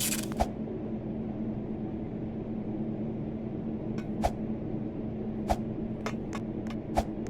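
A steady low mechanical hum with several short, sharp clicks scattered through it, the loudest one near the end.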